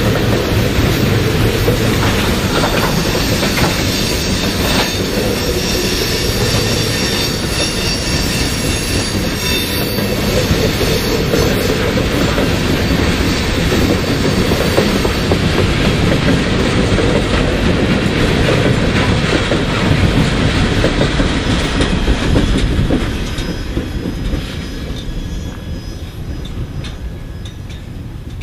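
Freight train of refrigerator boxcars rolling past close by, steel wheels clattering on the rails with a thin high wheel squeal over the first half. The sound fades from about 23 seconds in as the end of the train passes and moves away.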